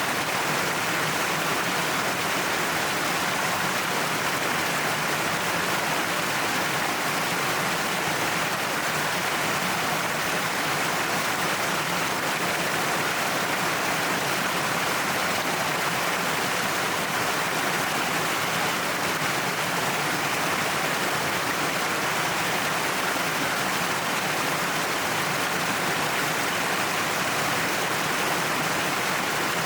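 Waterfall pouring down a cliff face: a steady, unbroken rush of falling water.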